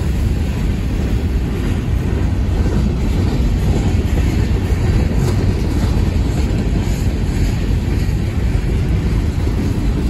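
Freight train of covered hopper cars rolling slowly past, a steady low rumble of steel wheels on the rails.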